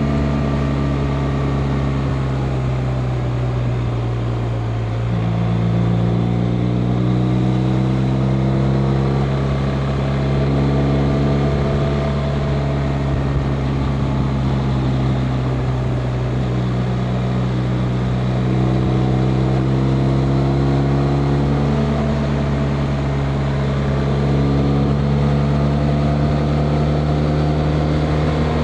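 BMW R 1250 RT's 1254 cc boxer twin engine running under way, its pitch drifting slowly and stepping up a few times as the throttle and gears change.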